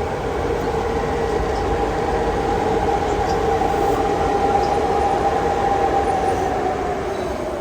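Train running on the rails, with a sustained two-note tone over the rolling noise, swelling slightly in the middle and fading near the end.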